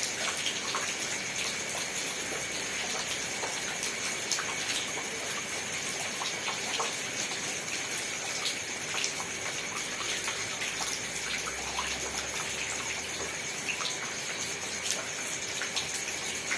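Steady rain, an even hiss dotted with many separate drops ticking at irregular moments.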